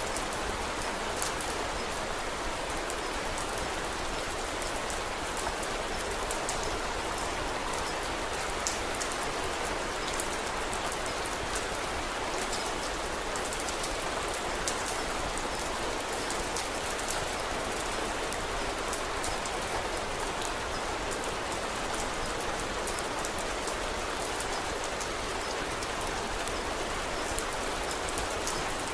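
Steady rain falling, an even hiss, with scattered small sharp ticks throughout.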